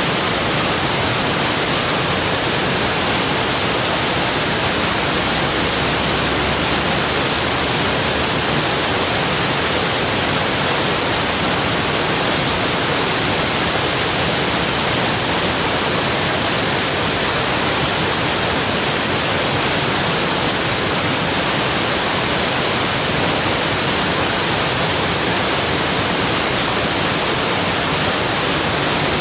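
Rushing water of a waterfall, a steady, even hiss that does not change.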